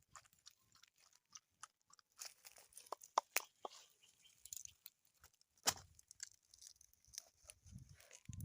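Irregular crunching and crackling, with a few sharp cracks about three seconds in and one loud crack a little before six seconds.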